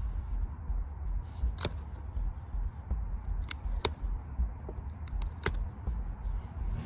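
About five sharp, separate clicks scattered over a steady low rumble.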